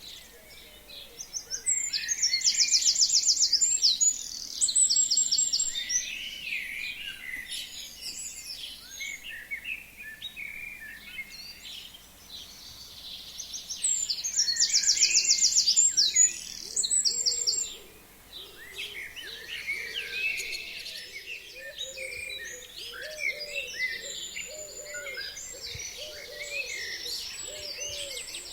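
Forest songbirds singing in spring. One bird gives a loud song of rapid trilled phrases, about four seconds long, twice about twelve seconds apart, among many shorter chirps from other birds. A run of lower repeated notes comes in the second half.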